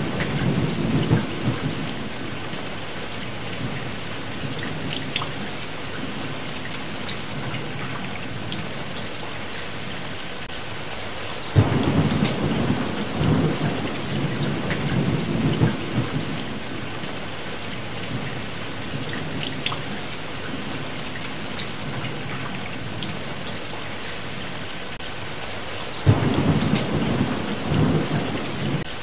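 Steady heavy rain with rolls of thunder: a deep rumble fades out at the start, another breaks in suddenly about a third of the way through and rolls on for several seconds, and a third comes in near the end.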